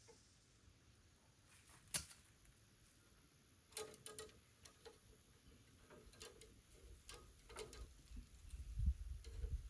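Scattered light clicks and taps of hand tools on metal, a sharp one about two seconds in and a cluster around four seconds, with a low rumble rising near the end.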